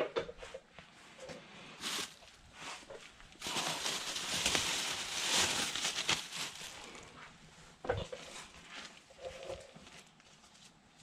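Clicks and knocks of tools and parts being handled on an engine cylinder head, with a few seconds of loud, even hissing in the middle.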